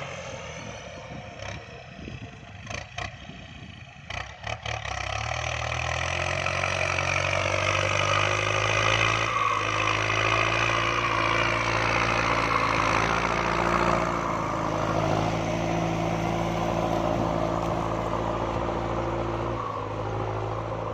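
Kubota MU5702 tractor's diesel engine: a few clattering knocks over the first few seconds, then about five seconds in it picks up and runs steadily under load, pulling a plough.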